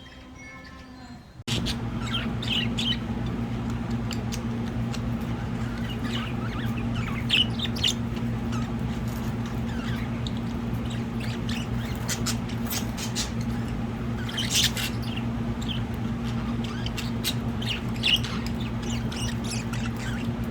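Pet budgies chirping in short, scattered calls over a steady low hum, cutting in abruptly about a second and a half in after a moment of soft chiming music.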